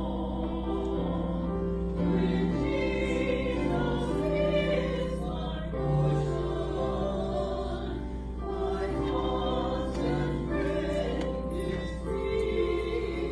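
Church choir singing sacred music in held notes that change every second or so, over a steady low hum.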